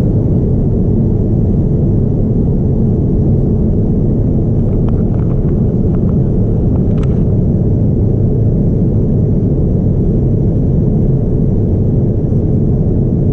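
Steady low rumble of a Boeing 787-9's engines and airflow heard inside the passenger cabin in flight, with a few faint light clicks about halfway through.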